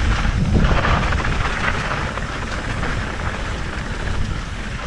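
Mountain bike rolling fast down a dry dirt trail: steady tyre crunch and rattle over loose dirt and stones, with wind rumbling on the microphone.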